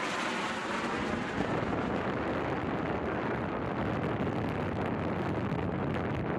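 F135 jet engine roar: a steady, dense rumble with no distinct tones.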